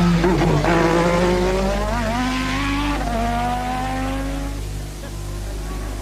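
1988-season Formula One car engines at high revs, the pitch climbing through the gears with drops between, easing off about five seconds in before another engine note rises near the end.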